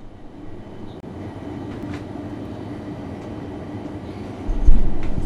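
A train running at speed, heard from the locomotive cab: a steady rumble with a faint hum, growing slowly louder. About four and a half seconds in, a much louder deep rumble sets in suddenly.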